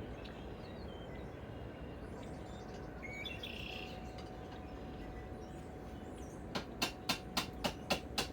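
A quick run of about seven sharp hammer taps on metal, about four a second, near the end, knocking at a lag screw stuck fast in an impact socket. Birds chirp faintly before the taps.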